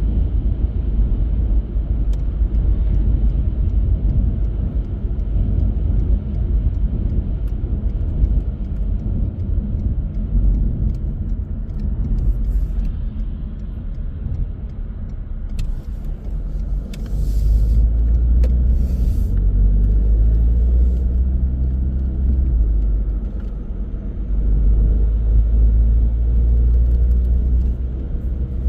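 A car driving, with a steady low rumble of engine and road noise. About halfway through the engine note grows stronger and clearer, as if pulling harder, and a few short hissing noises come around then.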